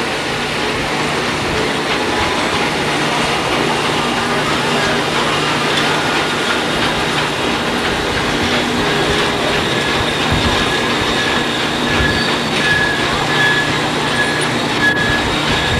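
Passenger train cars rolling steadily past, wheels running on the rails. From about midway a thin, high wheel squeal comes and goes.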